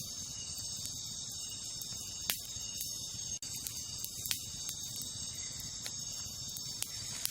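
Campfire burning with a low crackle and a few sharp pops of burning wood, the loudest about two and four seconds in, over a steady high-pitched chorus of night insects.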